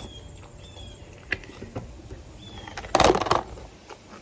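A loud crackling rustle of something being handled about three seconds in, with a repeated short falling chirp, like a bird's call, about every two seconds.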